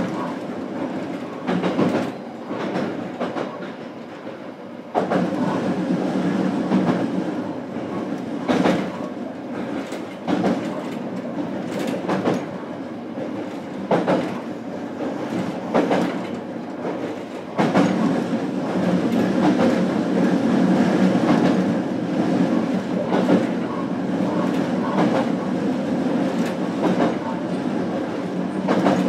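Onboard running sound of a JR Kyushu BEC819 'DENCHA' battery-electric train: a steady rumble with the wheels clicking over rail joints at irregular intervals. The sound steps up about five seconds in and again a little past halfway.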